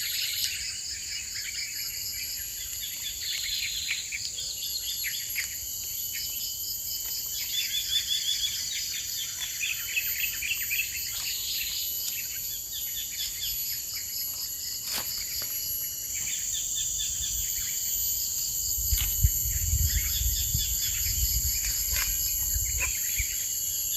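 Forest ambience: insects buzzing steadily at a high pitch, with birds calling in repeated chirping trills over it. A few sharp clicks, and a low rumble in the last few seconds.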